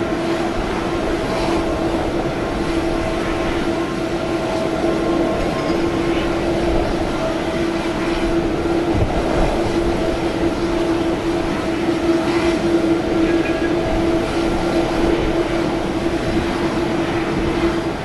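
Steady drone of a Boeing 787 jet airliner's engines running on the apron, a continuous rushing noise with a steady hum-like tone held throughout.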